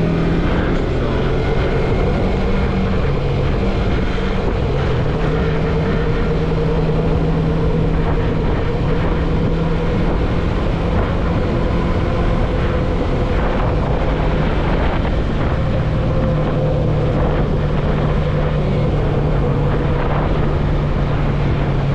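Yamaha MT-03 motorcycle engine running steadily at cruising speed, its pitch shifting slightly a few times, with wind rushing over the microphone.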